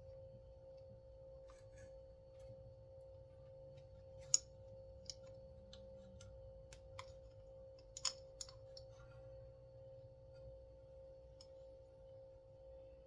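Scattered light clicks and taps of small parts being handled while a chainsaw's recoil starter is reassembled, the sharpest about four seconds in and a cluster around eight seconds in, over a faint steady hum.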